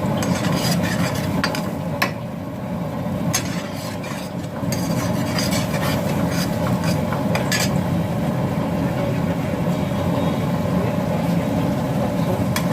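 A spoon stirring food in a cooking pan, clinking against the pan a few times, over a steady low hum.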